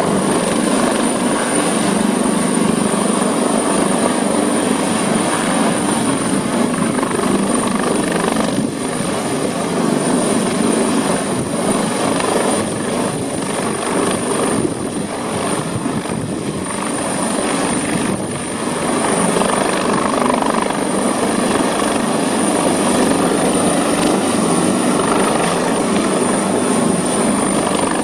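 Helicopter running close by, its rotor and engine making a loud continuous noise with a thin steady high whine over it, easing slightly in loudness through the middle before coming back up.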